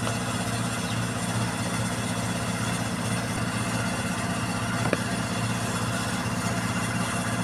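An engine idling steadily, with a single sharp click about five seconds in.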